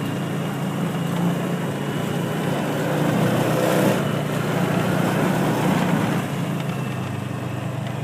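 Engine of a small ride-on farm vehicle running steadily as it drives along, a low hum with a noisy rattle over it, swelling slightly in the middle.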